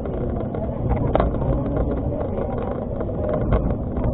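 Argo Parahyangan passenger train running, a steady low rumble with a couple of short knocks.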